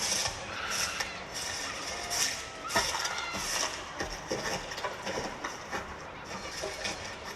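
Crowd noise at a street march, with a rhythmic beat repeating about every two-thirds of a second, such as clapping, drumming or chanting.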